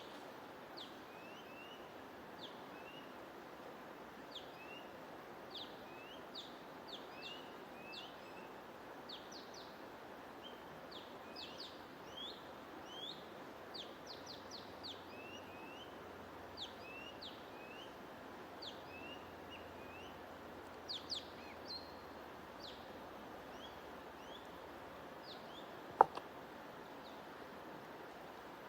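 Small birds chirping in quick, short notes, many of them sliding down in pitch, over a steady hiss of white noise. A single sharp click stands out near the end.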